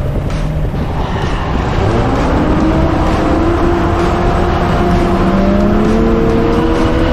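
Off-road 4x4's engine working hard as it drives over sand dunes, its pitch climbing steadily for several seconds as it accelerates under load, over a rough low rumble.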